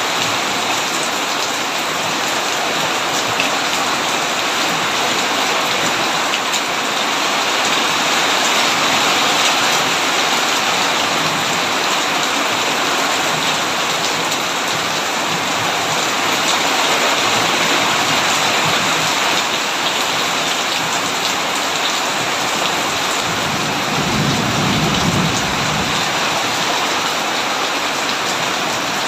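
Heavy rain falling steadily on a tin roof, a dense even hiss. About three-quarters of the way through, a low rumble of thunder lasts a couple of seconds.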